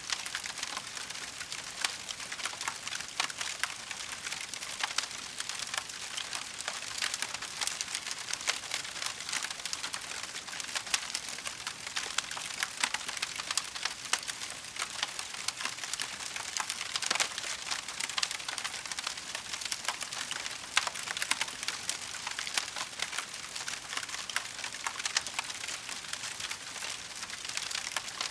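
Wood fire crackling: a dense, continuous run of small pops and snaps, with a few louder cracks standing out.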